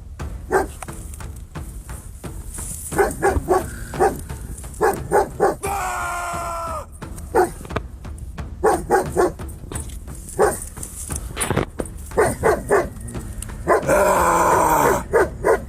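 A canine barking in short, repeated barks and yips, with a drawn-out falling whine about six seconds in and a louder, longer cry near the end.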